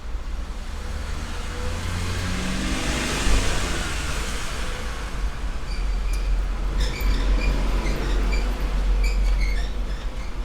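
Handling noise from routing a PC case's front-panel cables: a low rumble throughout, a rustling swell about two to four seconds in, then light clicks and ticks of plastic connectors and cables against the case in the second half.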